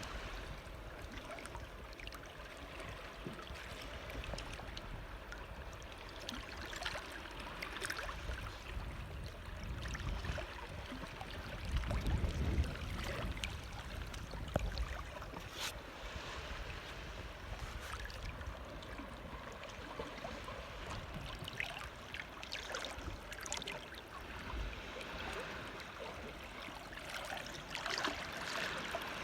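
Shallow seawater lapping and trickling at the water's edge, a steady wash with a few brief louder splashes, the biggest about 12 seconds in.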